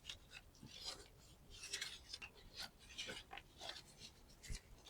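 Faint, irregular clicks and scrapes of hand tools and metal parts being handled during work on the engine.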